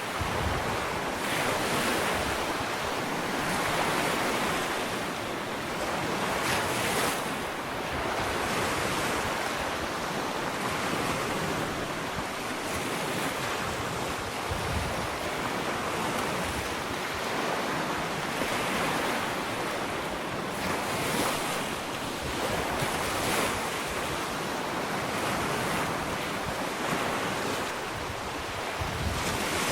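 Gentle ocean waves breaking and washing up a sandy beach, a steady hiss of surf that swells and eases every few seconds.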